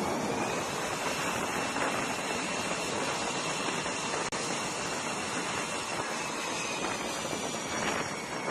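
Jet aircraft engine running: a steady rush of noise with a faint high whine that rises slightly and then slowly falls.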